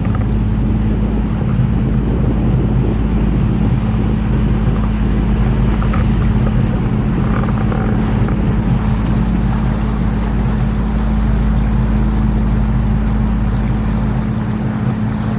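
Tour boat's engine running at a steady cruising speed, a constant low hum with water and air noise around it.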